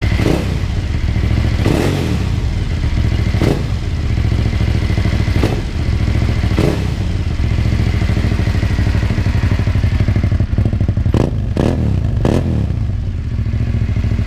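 Aprilia Caponord 1200's V-twin engine running through a GPR Furore carbon slip-on exhaust, with short sharp thuds every second or two and three in quick succession near the end.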